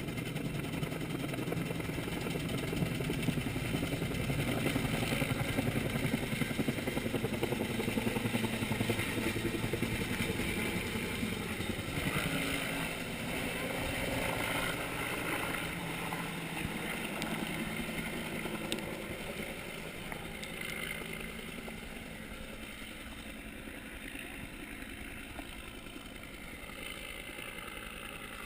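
A motor running steadily, its pitch dipping and rising once near the middle, then growing gradually fainter over the last several seconds.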